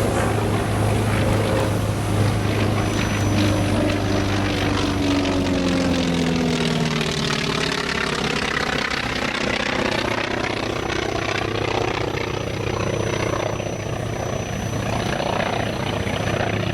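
North American T-28 Trojan's nine-cylinder radial engine on a fly-by pass, its pitch falling as it goes past about halfway through. It has its distinctive uneven note because the exhaust is split into two manifolds, one for five cylinders and one for four, so only half the exhaust is heard as it goes by.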